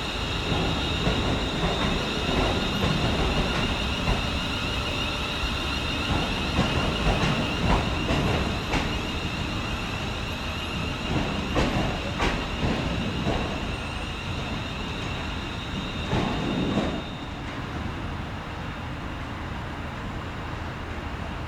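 Class 350 Siemens Desiro electric multiple unit moving through the station, its wheels clicking over rail joints every so often over a steady high-pitched tone. The sound drops away about 17 seconds in.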